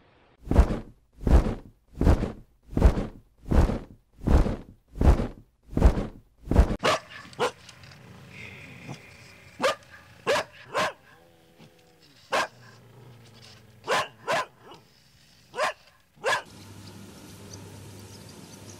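Dog barking: a steady run of about eight loud barks, roughly one every three-quarters of a second, then sparser, sharper barks spaced a second or more apart for several seconds.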